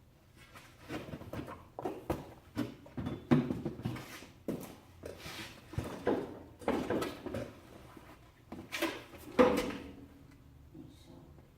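Rummaging by hand through a container of parts: an irregular run of knocks, clatters and rustling as objects are moved and set down, with the loudest knocks about three seconds in and near the end.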